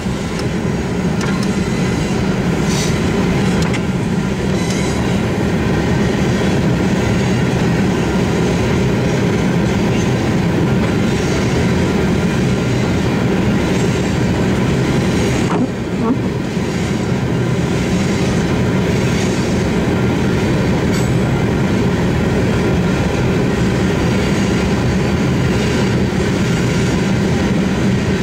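Freight train of covered hopper cars rolling past at a grade crossing: a steady rumble of steel wheels on the rails.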